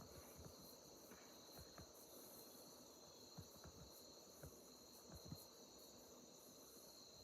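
Near silence: a faint steady high-pitched chirring, like insects, with a few soft ticks.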